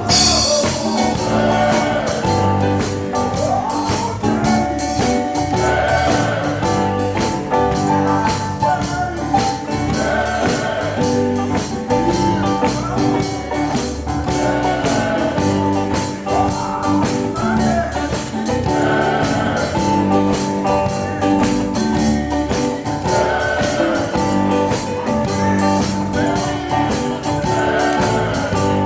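Gospel song with singing over a band, with steady percussion and tambourine beats.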